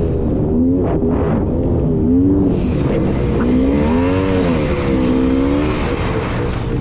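Polaris Scrambler 400 two-stroke ATV engine under riding load, its pitch rising and falling several times as the throttle is worked on and off.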